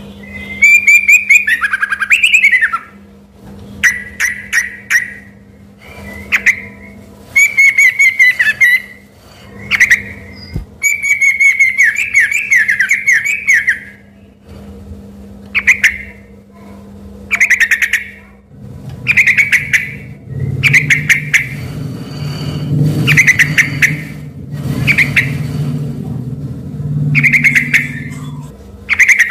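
Yellow-vented bulbul (trucukan) singing loudly in short, bubbly, warbling phrases that repeat every second or two with brief pauses, its song full enough to pass for a white-rumped shama. A low hum sits under the song through much of the second half.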